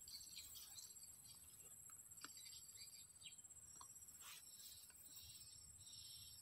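Faint, high-pitched twittering chirps over a steady high whine from a swiftlet house's call system, the chirps bunching up near the end.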